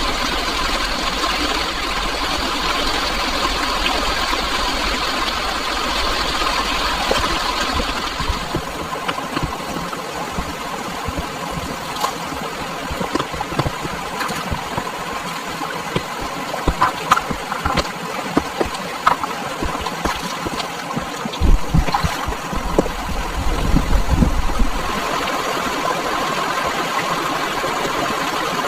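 A steady running sound from a motor or engine. Its upper part drops away about eight seconds in and returns near the end, and scattered knocks and clicks fall in between.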